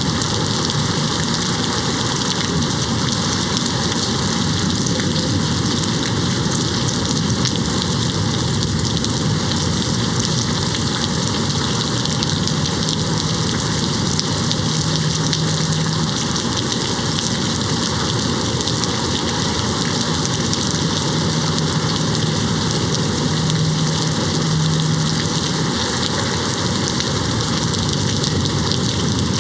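Steady rain beating on a window, an even unbroken hiss. A faint low hum rises under it twice, once mid-way and again later.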